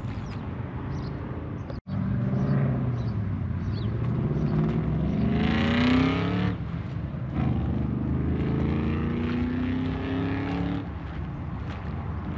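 Four-wheel drive's engine accelerating: its note rises steadily, drops at a gear change about six and a half seconds in, climbs again, then eases off near the end. The sound cuts out for an instant just before two seconds in.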